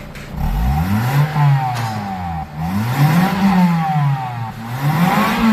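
Toyota 2ZZ-GE 1.8-litre twin-cam four-cylinder engine blipped three times from idle. Each rev climbs and falls back, and the third is still near its peak at the end.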